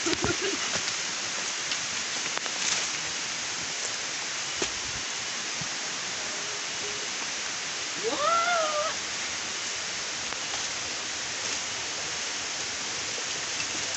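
Steady rain hiss on the forest foliage, with a short rising-and-falling vocal call about eight seconds in.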